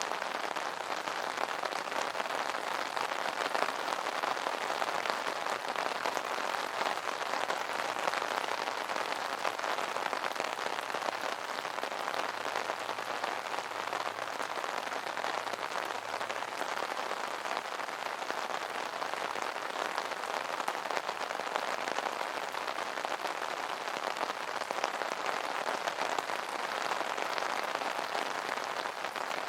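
Steady rain pattering on an umbrella canopy, a dense even patter of many drops.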